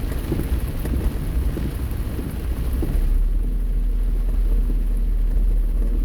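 Heavy rain drumming on a car's roof and windshield, heard from inside the cabin over the low rumble of tyres and engine. About three seconds in the rain patter falls away, leaving mostly the steady low road rumble, as the car passes under a tree that shelters it from the rain.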